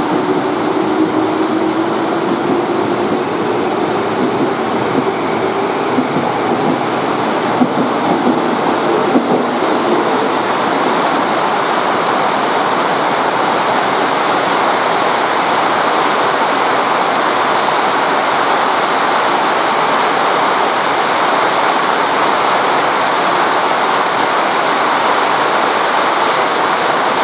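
Very heavy rain: a dense, steady hiss of a downpour. In the first several seconds a departing electric commuter train's faint whine rises in pitch under the rain.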